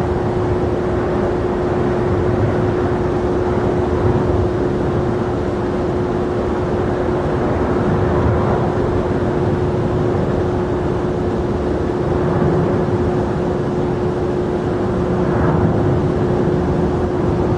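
Jet airliner engines running at the airport: a steady roar with a constant, unchanging hum through it.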